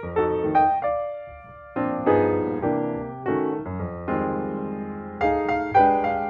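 Background music: slow, gentle piano chords, each struck and left to fade.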